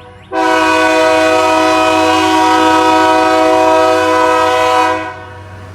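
Locomotive air horn sounding one long blast of several notes at once, starting a fraction of a second in and cutting off about five seconds in.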